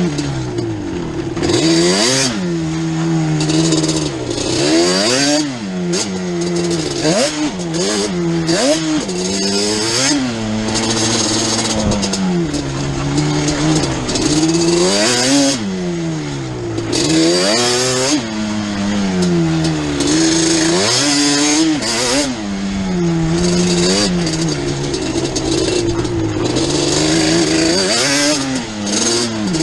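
Yamaha Banshee 350's twin-cylinder two-stroke engine revving up and dropping back again and again as it is ridden around a rough dirt track, throttle opening and closing every second or two.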